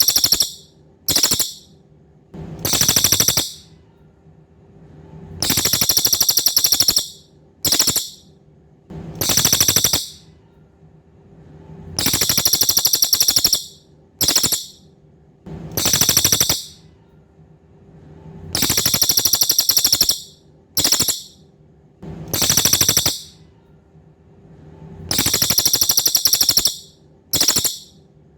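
A cililin bird singing: very high, rapidly pulsing buzzy trills, each long phrase lasting about a second and a half and followed by a short burst, repeating in a regular cycle every six to seven seconds.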